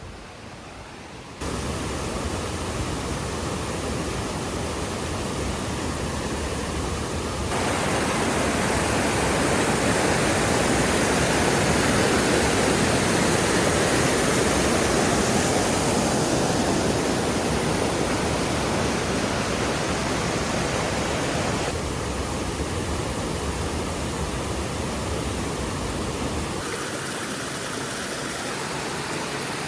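Rushing water, a steady wash of noise from a waterfall or stream. It changes abruptly in level and tone several times, loudest in the middle.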